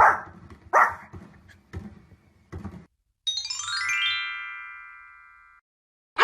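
A dog barks a few times, the barks sharp and then fainter. Then a quick run of ringing, chime-like notes steps down in pitch and slowly fades.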